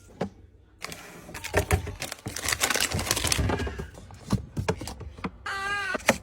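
Drinks and snacks being handled and set into a fridge: sharp clicks and taps of containers, and crinkling of plastic packaging in the middle. A short wavering pitched sound comes near the end.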